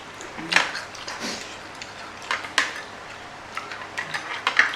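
Cutlery clinking and scraping against a tray of noodles while eating, in scattered sharp clicks that come thicker near the end.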